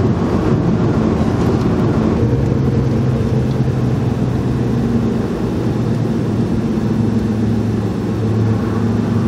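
Car engine running steadily, heard from inside the cabin; its pitch settles to a steadier, lower note about two seconds in. The engine is misfiring on cylinder three.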